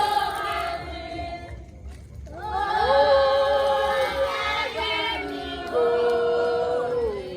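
A group of voices singing a song together in unison, holding long notes that step up and down, with a short breath pause about two seconds in.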